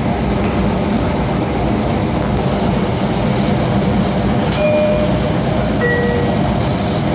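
Long Island Rail Road train running at steady speed, heard from on board: a continuous rumble of wheels on track. Two brief high tones cut through it a little past the middle, one after the other.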